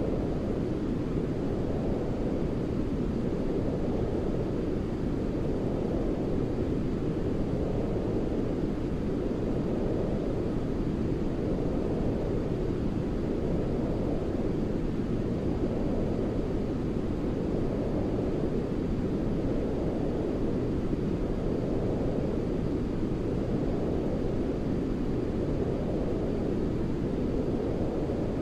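A steady, deep sleep-noise hiss, its energy mostly in the low range, like a dark white noise, with a gentle swell about every two seconds.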